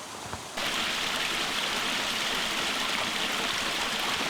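Mountain stream rushing steadily, coming in suddenly about half a second in.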